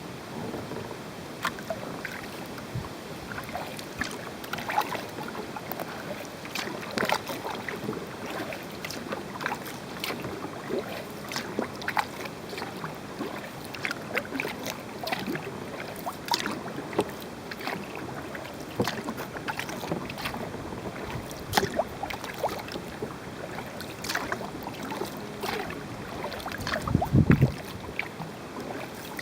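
Kayak paddle strokes: irregular splashes and drips of water as the blades dip in and lift out. A louder low thump comes near the end.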